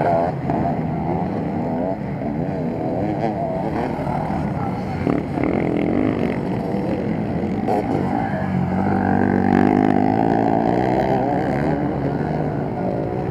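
Several motocross bikes revving up and down as they race round the track, their engine pitches rising and falling over one another. One bike grows louder about two-thirds of the way through as it passes close.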